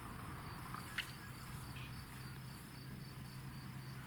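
Crickets chirping in a steady, evenly pulsing rhythm, with one sharp click about a second in.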